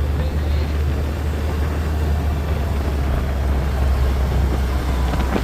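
Steady low engine rumble with rushing noise from a moving vehicle.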